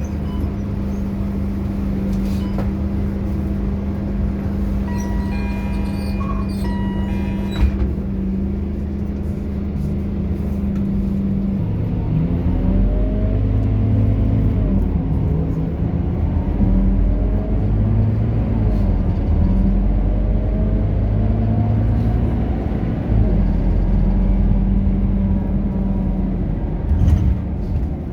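Scania K230UB bus's five-cylinder diesel engine idling steadily, with a short series of electronic beeps partway through. About twelve seconds in it pulls away, the engine note rising and falling repeatedly as it accelerates through the gears and grows louder.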